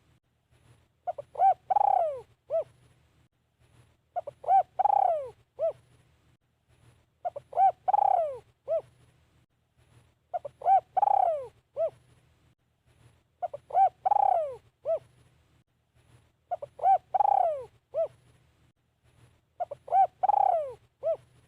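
A caged decoy spotted dove cooing. It repeats the same phrase about every three seconds: two short coos, a longer coo that falls in pitch, and a short final coo. A faint low hum runs underneath.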